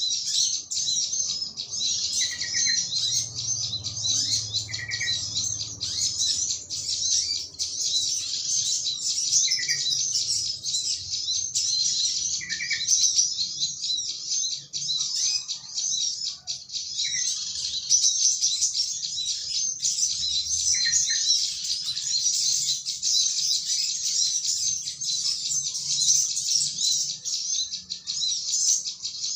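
Dense, continuous high-pitched chattering and chirping of many small birds, with short lower call notes every few seconds from a yellow-vented bulbul.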